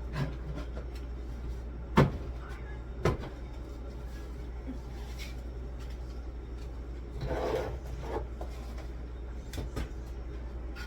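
Knocks and clatter of items and fridge parts being handled while a fridge is cleaned out: a sharp knock about two seconds in and another about a second later, then a short rustle or scrape a little past seven seconds, with a few small clicks, over a steady low hum.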